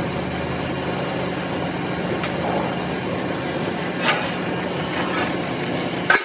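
Steady mechanical hum with a constant low drone, broken by several sharp knocks or clicks; it cuts off suddenly at the end.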